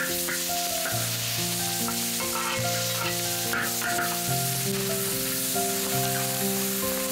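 Minced garlic and ginger sizzling in hot oil in a large wok, stirred now and then with a spatula. Soft background music of held notes plays over it.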